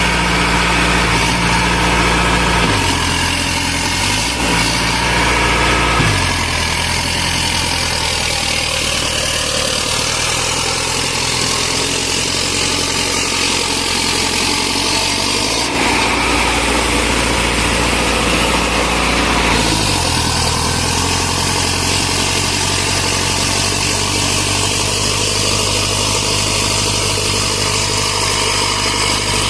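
Sonalika Tiger tractor's diesel engine running steadily, its speed shifting up and down several times.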